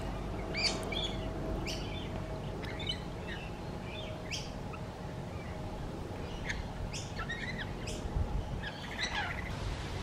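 Birds chirping: short, sharp calls scattered irregularly, a few notes at a time, over steady low outdoor background noise.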